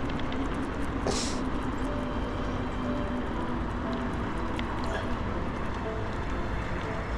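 Steady wind rush and rolling noise from riding a bicycle along a path, with a brief hiss about a second in.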